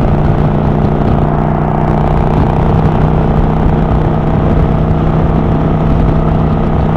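Kawasaki Vulcan 900 Classic LT's V-twin engine running at a steady cruising speed, with a constant rush of wind and road noise.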